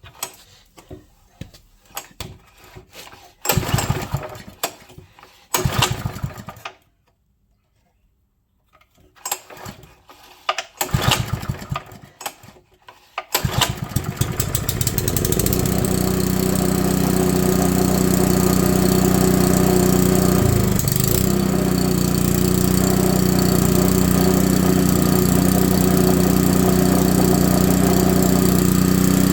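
Honda GX110 single-cylinder four-stroke engine being cranked with its pull-starter in several short bursts. It catches about thirteen seconds in and then runs steadily, with a brief dip a few seconds later.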